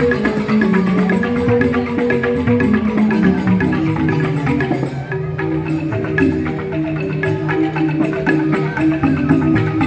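Joged bumbung gamelan playing: bamboo xylophones struck in fast, dense runs of notes, with percussion, at a steady pace.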